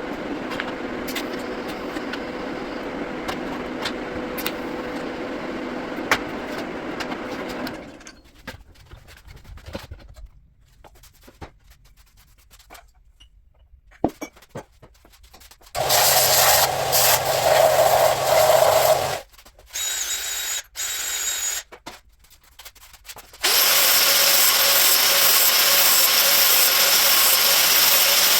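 A steady machine hum, then after a quiet stretch a power tool runs in several short bursts and then continuously near the end.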